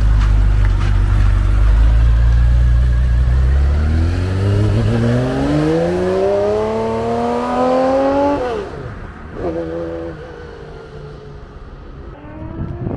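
1968 Porsche 911's rebuilt air-cooled flat-six running loud and deep, then revving up with the pitch climbing steadily for about four seconds before the throttle is cut. It then drops back to quieter, lower engine notes.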